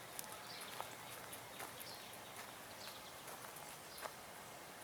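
Faint outdoor ambience with a few light, scattered taps, like small knocks or steps on playground equipment.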